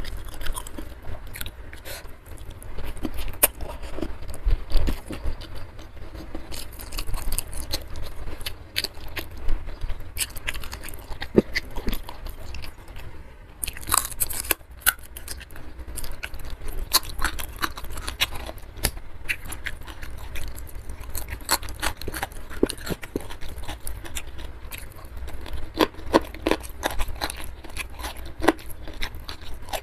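Close-miked eating: a person chewing and crunching food with many irregular, sharp clicks and crunches.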